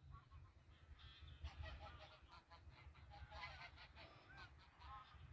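A flock of birds calling faintly, with many short calls overlapping in clusters, over a low rumble.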